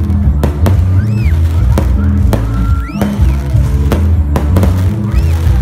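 Fireworks going off with repeated sharp bangs, about eight of them, over loud music with a heavy bass line.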